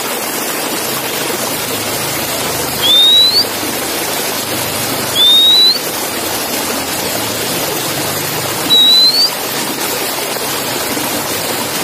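Oriental magpie-robin (kacer) giving three short rising whistles a few seconds apart, over a steady hiss.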